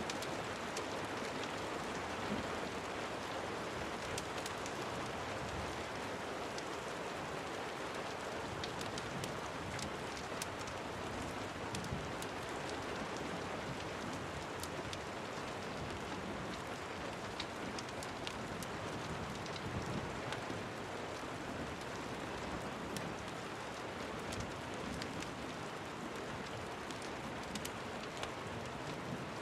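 Steady rain falling and pattering on a surface, with many small sharp ticks scattered throughout.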